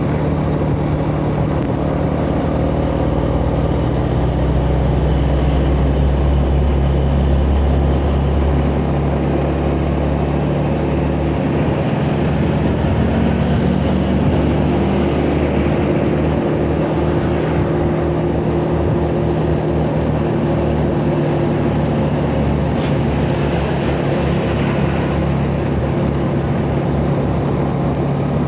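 Yamaha Jupiter Z motorcycle's single-cylinder four-stroke engine running steadily under way, heard from the rider's position, with road noise.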